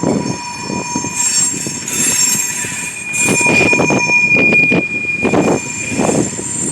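Slow-moving freight train passing close by, its cars rumbling and knocking unevenly over the rails, with a steady high-pitched wheel squeal that grows louder midway.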